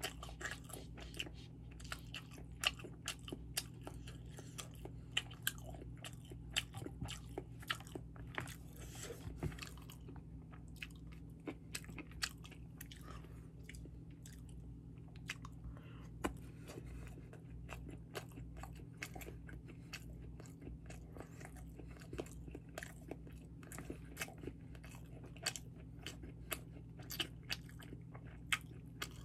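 Close-miked chewing and wet mouth sounds of a person eating sushi: frequent sharp smacks and clicks, thinning out for a few seconds midway.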